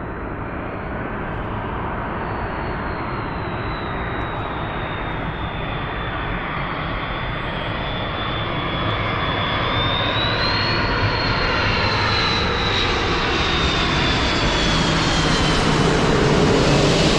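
Finnair airliner coming in low on its landing approach, its engine noise growing steadily louder as it nears, with a high whine that sags and then rises in pitch; loudest near the end as it passes close.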